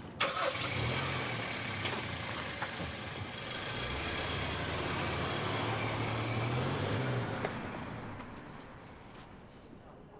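A motor vehicle's engine running as it pulls away, a low hum under road noise that swells and then fades out over the last few seconds.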